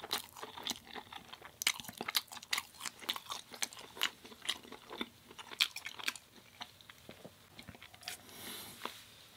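Close-up eating sounds: wet chewing and crunching of food, with many quick crackling clicks, thinning out over the last few seconds.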